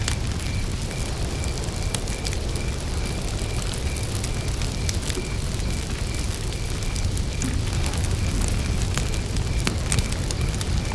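Wood campfire burning with a steady low rumble and frequent sharp crackles and pops. A cricket chirps throughout in short, evenly spaced pulses at one high pitch, about three a second.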